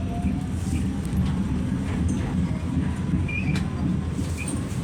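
New York subway train running: a steady low rumble with scattered faint clicks.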